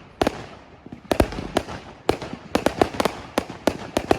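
Fireworks display going off: a rapid, irregular run of sharp bangs, several a second, with crackling in between.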